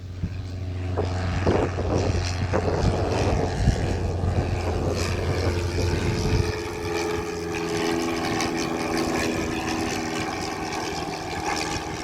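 Aircraft engine and propeller droning steadily, with wind noise on the microphone. A strong low hum drops away about six and a half seconds in, while a higher steady engine tone carries on and fades toward the end.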